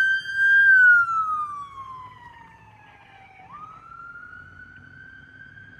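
Fire truck siren wailing: the tone holds high, slides down over about three seconds, then jumps back up and climbs again. It is loud for the first second or so, then fades to a much lower level.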